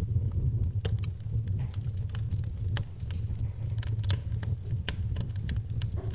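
Wood fire crackling in a fireplace, with frequent irregular sharp pops over a steady low rumble, with rain mixed in beneath.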